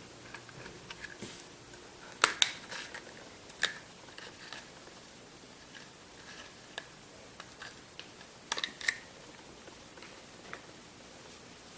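Handling noise of small objects: scattered light clicks and taps with a few louder ones about two seconds in and again past the two-thirds mark.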